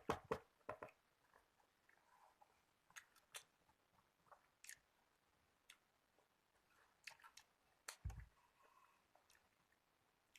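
Faint close-up chewing and mouth clicks of someone eating: a quick run of clicks in the first second, then scattered single clicks, with one dull thump about eight seconds in.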